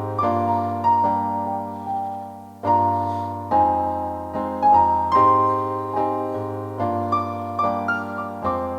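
Solo piano playing an instrumental passage without singing: chords and a melody line, each note struck and left to ring down before the next.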